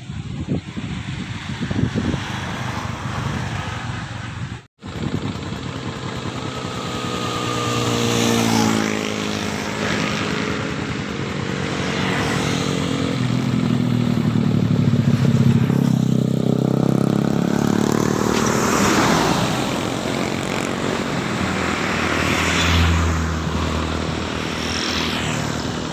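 Motor vehicles passing on a road, engines rising and falling in pitch as they go by, with a heavy low engine rumble near the end. The sound cuts out briefly about five seconds in.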